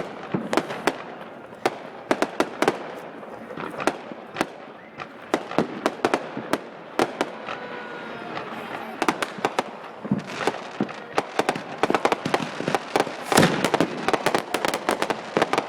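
Fireworks going off: a rapid, irregular run of sharp pops and bangs over a crackling background, with thicker volleys of pops about nine seconds in and again near the end.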